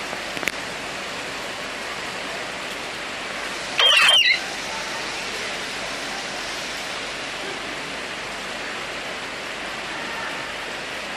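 Heavy rain pouring down in a steady downpour. About four seconds in, a loud, brief high-pitched cry rises above it.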